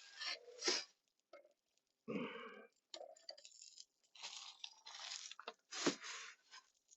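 Several short bursts of rustling and scraping from cooking gear and food being handled at the grill, with silent gaps between them.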